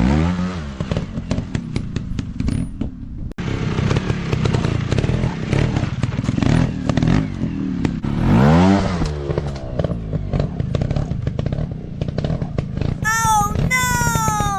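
Dirt bike engines revving up and down, with a steady rattle of clicks. Near the end come two short high tones that fall in pitch.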